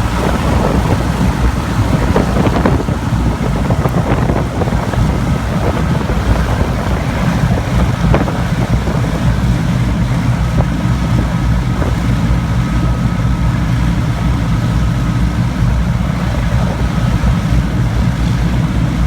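Rolls-Royce Griffon V12 piston engines of an Avro Shackleton running steadily on the ground, a loud continuous drone with a rushing sound over it and wind buffeting the microphone.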